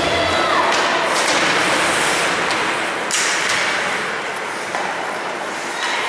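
Ice hockey play in an arena: skates scraping the ice and several sharp clacks of sticks and puck, over a steady hubbub of the rink.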